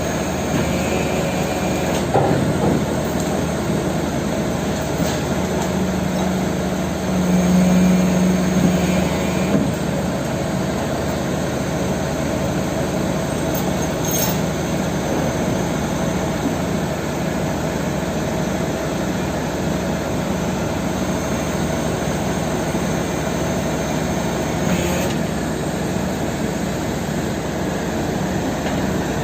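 Mitsubishi Fuso Super Great truck's diesel engine running steadily. A low hum strengthens for about three seconds, a few seconds in.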